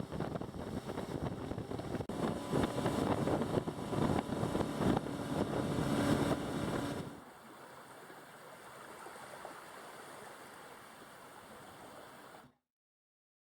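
Boat running over open water, with water rushing past the hull and wind on the microphone. About seven seconds in it drops to a quieter hiss, which cuts out a second before the end.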